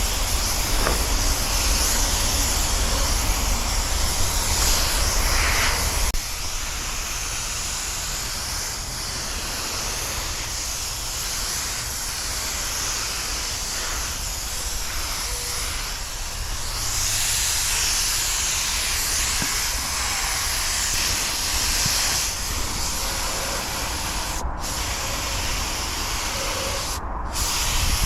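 Air-powered paint spray gun hissing steadily as it sprays, cutting out briefly twice near the end as the trigger is let off. A low rumble underneath stops about six seconds in.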